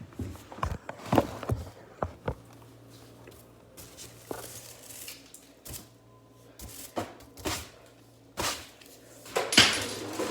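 Scattered taps, clicks and light scrapes of broken tempered-glass screen protector pieces being handled, with a louder crackling rustle near the end.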